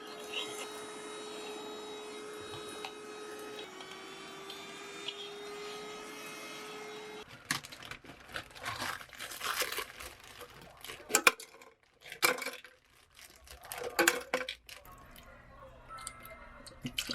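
A steady appliance hum, with a tone that dips in pitch partway and stops abruptly after about seven seconds, followed by plastic packaging being torn and crinkled in several sharp rustles.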